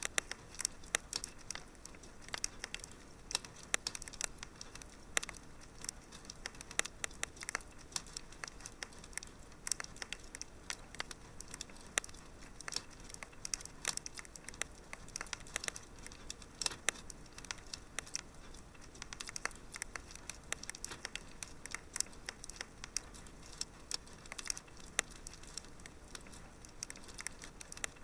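Wood fire in a fireplace crackling, with many small irregular pops and snaps over a faint hiss.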